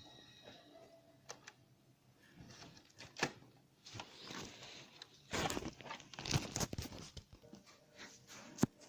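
Hard plastic handling noise, as of a Lego model being moved and worked by hand: scattered sharp clicks, one loud one about three seconds in and another near the end, with bursts of rustling in between.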